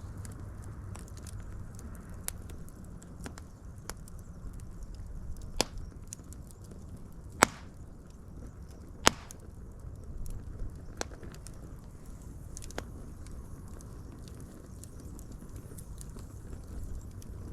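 Wood fire burning with a steady low rumble and scattered crackles, with two sharp loud pops about seven and nine seconds in.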